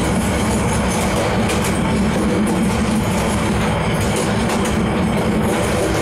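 Passenger train running, heard from inside a carriage: a steady noise of wheels on rails with faint, irregular clatter.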